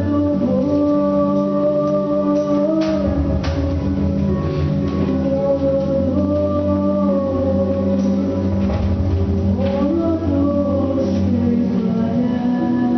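A female solo voice singing a slow melody in Ukrainian over instrumental accompaniment, holding long notes.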